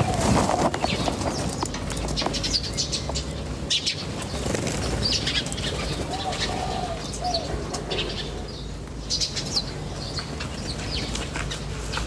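Small birds chirping in short, scattered high notes, with a few short arching lower calls and some wing fluttering, over a steady low rumble.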